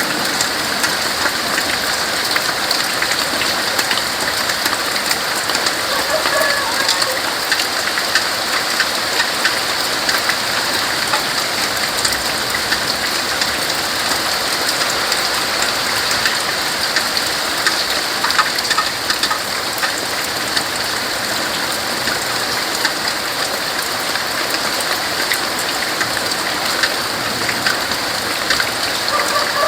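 Steady rain falling on tree leaves: an even, dense hiss with many individual drops ticking through it.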